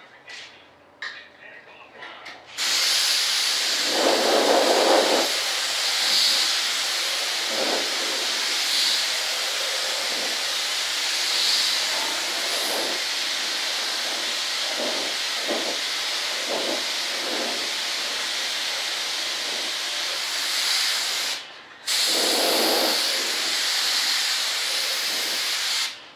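Primer spraying in a long steady hiss, starting a few seconds in, cutting out briefly near the end, then spraying once more.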